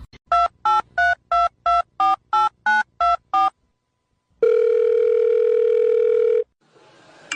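Telephone keypad dialing tones: about ten quick beeps in a row, each a pair of pitches, then after a short pause one long steady tone lasting about two seconds.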